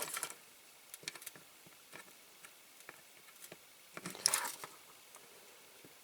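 Faint scattered taps and ticks of small-part handling, with one short scraping stroke about four seconds in, typical of a small hand file on a diecast metal pin.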